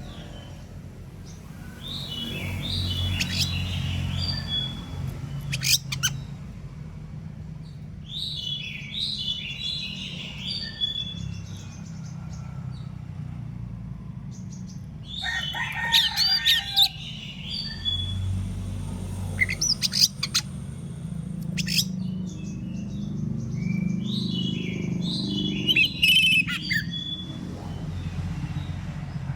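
Oriental magpie-robin (kacer) singing in bursts of quick, varied, high whistled notes, with pauses between the phrases. Several sharp, loud clicks are heard among them, over a steady low rumble.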